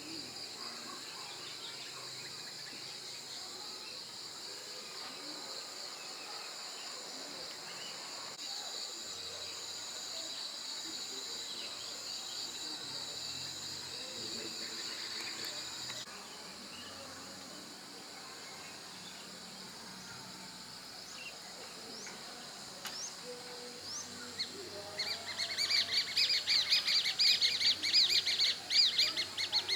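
Insects keep up a steady high drone through the first half, which stops about halfway through. Near the end, a bird calls loudly in quick runs of repeated chirps for several seconds.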